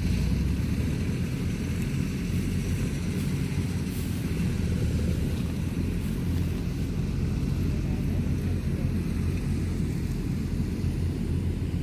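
Diesel engine of harvesting machinery running steadily under load, a low, even drone with no breaks.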